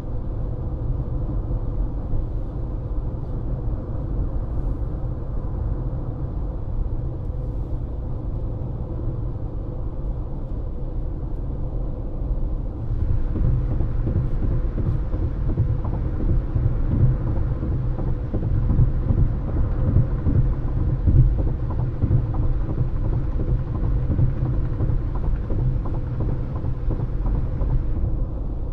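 Tyre and road noise heard from inside a moving car, a steady low rumble with a faint steady hum. About halfway through it grows louder and hissier, then drops back near the end.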